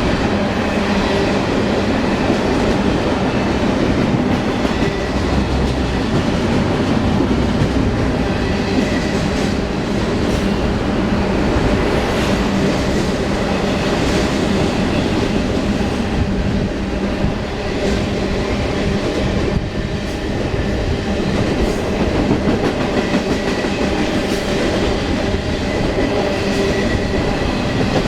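Railroad cars rolling steadily past, steel wheels clicking over the rail joints.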